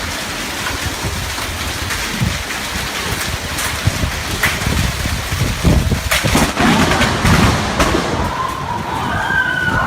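Thunderstorm with steady heavy rain and scattered crackles, and a louder rumble of thunder about six seconds in.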